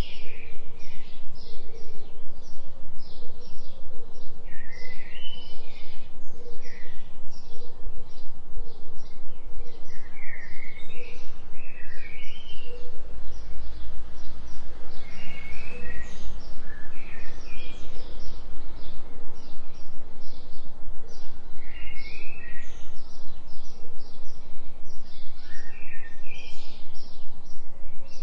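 Small forest birds chirping and calling over and over, high and quick, over a steady low hum from a binaural-beat tone whose loudness pulses in a fast, even rhythm.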